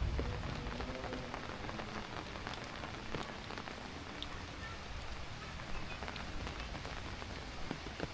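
Heavy rain falling steadily, with many separate drops tapping close by.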